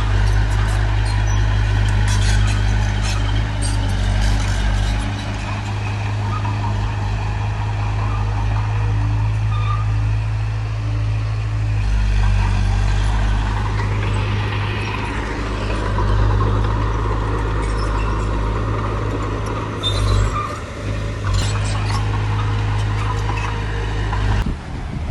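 Heavy diesel earthmoving machinery running steadily at work, its engine a continuous low drone that shifts in load a few times, with scattered metallic clanks and rattles.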